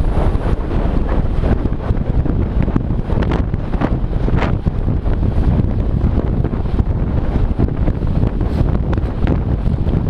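Steady, loud wind buffeting the microphone of a camera on a moving ride, with a low rumble.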